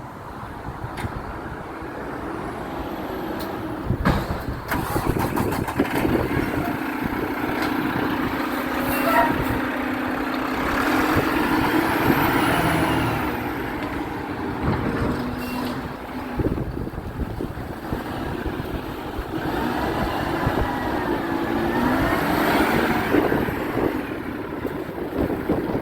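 Garbage truck running close by, its engine rising in level about four seconds in, with squeals that rise and fall twice, in the middle and again near the end.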